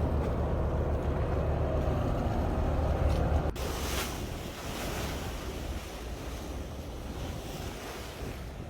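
Boat engine running steadily, with wind and water noise, cut off abruptly about three and a half seconds in; then waves and wind buffeting the microphone, the rushing sound swelling and fading about once a second.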